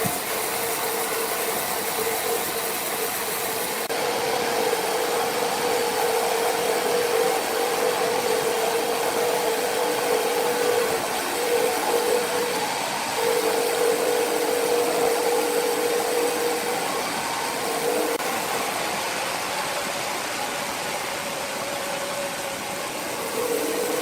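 Large sawmill saw running steadily, a constant mid-pitched whine over broad machine noise. The whine breaks off briefly a few times around the middle.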